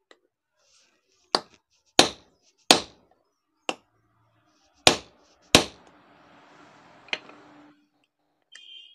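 Hammer blows on metal, about seven sharp strikes at an uneven pace, seating the large bevel gear of an angle grinder's gearbox onto its spindle.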